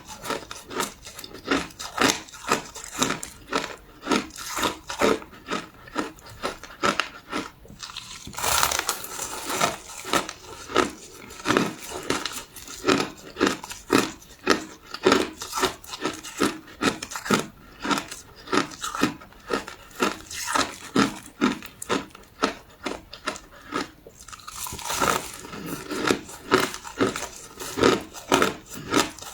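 Crushed ice being chewed, close up: a fast, steady run of crisp crunches, about two or three a second. Twice, a longer, denser crunching stretch breaks in, about a third of the way in and near the end.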